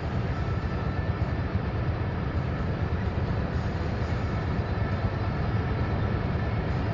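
Opel OPC's 2.8-litre turbocharged petrol V6 (Z28NET) pulling steadily in sixth gear, heard from inside the cabin at about 180 km/h as a constant low drone blended with wind and road noise.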